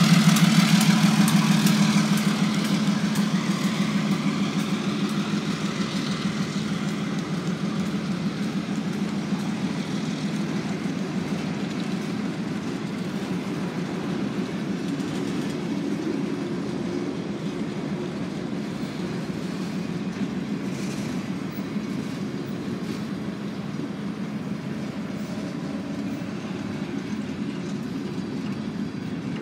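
Two EMD diesel freight locomotives, a GP38-2 and an MP15AC, passing close by: their engine drone fades over the first few seconds. Then a long freight train's boxcars roll past with a steady rumble of wheels on rail, slowly growing quieter.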